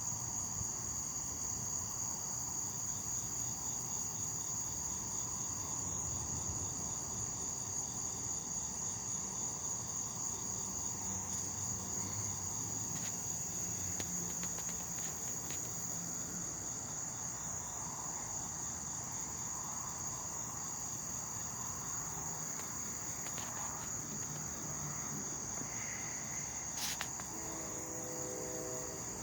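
Steady, high-pitched chorus of night insects, with a second, slightly lower pulsing trill that breaks off and resumes every few seconds. A single sharp click comes near the end.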